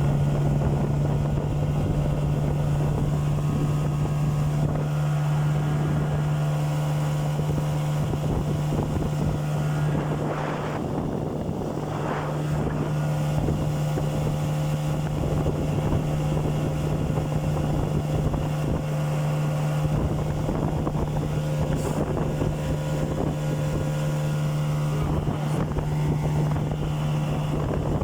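Toyama outboard motor running at a steady speed, pushing a small boat along, with wind on the microphone.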